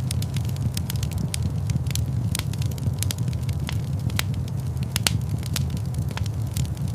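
Fire burning in a large stone fireplace, crackling with frequent irregular sharp pops over a steady low rumble of the flames.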